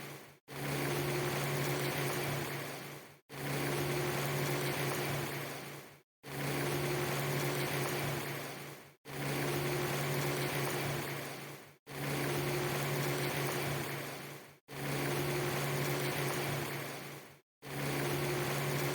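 A short ambience loop, a steady hiss over a low hum, that fades out to silence and cuts back in roughly every three seconds.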